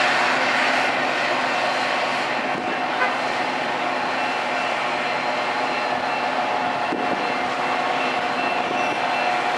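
A train running steadily: a continuous rumble and rail noise with faint steady whining tones over it, and one small click about three seconds in.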